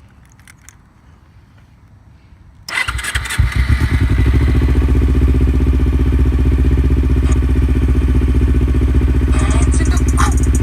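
Kawasaki Ninja 250's parallel-twin engine starting up about three seconds in, catching after a brief uneven moment and settling into a steady idle.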